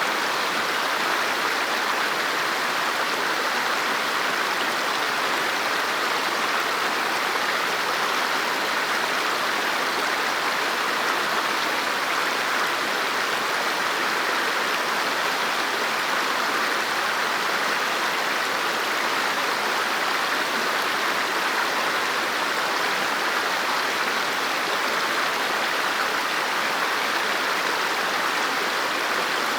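River water flowing, a steady, even rush of moving water with no breaks.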